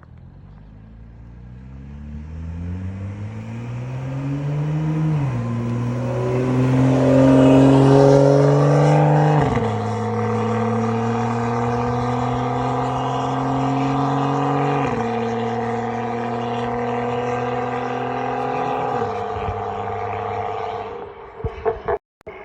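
BMW N55 turbocharged inline-six with a catless downpipe, non-resonated AWE mid pipe and Dinan free-flow muffler, accelerating hard through the gears. The pitch climbs and drops at three upshifts, about 5, 9 and 15 seconds in, then the engine note falls away as it lifts off near the end.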